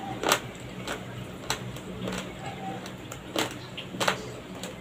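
Raw, uncooked rice grains crunching between the teeth as they are chewed: sharp, irregular crunches about once a second.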